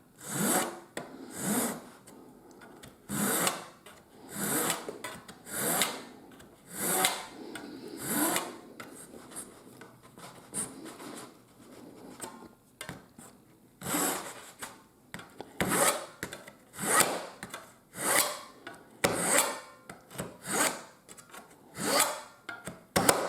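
Razor saw cutting the protruding end of a wooden flywheel hub flush, in rasping back-and-forth strokes about one a second. The strokes pause briefly about halfway through, then resume a little faster.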